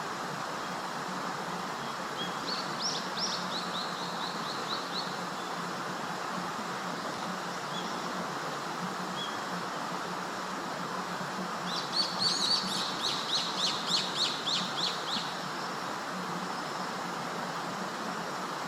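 A forest songbird sings two phrases, each a quick run of repeated high notes, the second louder and longer, over a steady background hiss.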